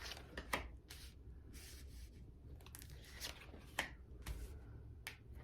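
Tarot cards being handled: a few short, separate swishes and soft taps of cards sliding against each other.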